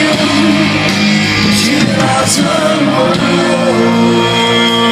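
Live rock band playing an instrumental passage between sung lines, with electric guitar: wavering, bending lead lines, then a steady held chord about three seconds in.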